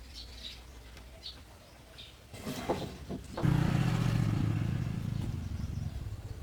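A few faint clicks, then a low engine hum sets in suddenly about three and a half seconds in and slowly fades away.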